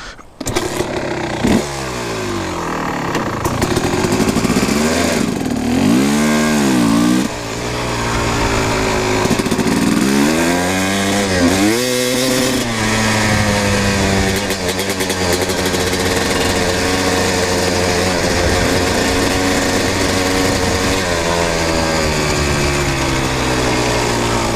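Kawasaki KX250 dirt bike engine starting again right after a stall. It is revved up and down several times, then settles into a steady run for the second half.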